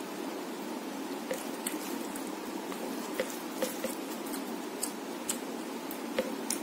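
Close-up mouth sounds of chewing a handful of rice and chicken curry, with soft wet squishing as fingers mix rice on the plate. Irregular small clicks over a steady background noise.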